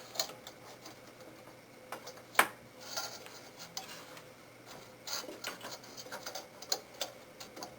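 Fans being taken off inside a desktop PC case by hand: scattered clicks and taps of parts being handled and unclipped, with one sharper click about two and a half seconds in.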